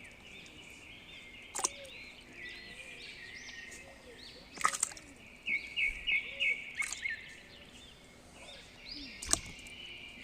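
Many small birds chirping continuously in a busy chorus, with four sharp clicks spread through it.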